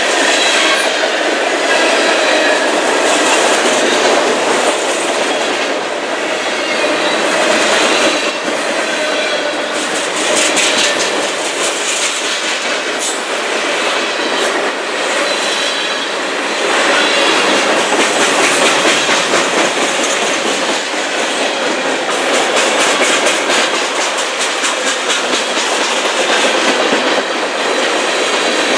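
Freight train cars rolling past, their wheels clacking over rail joints in quick runs of clicks, with a faint high wheel squeal at times.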